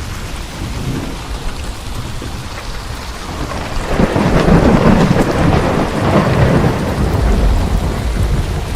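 Steady heavy rain with thunder; a long rolling thunder rumble swells up about four seconds in and fades over the next few seconds.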